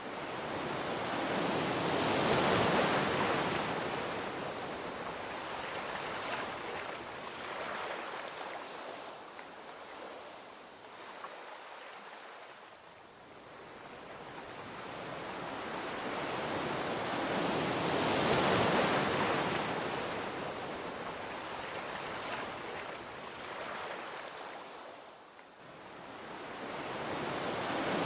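Gentle ocean waves washing onto a beach: the surf rises to a peak and ebbs away slowly, twice, with a third wave building near the end.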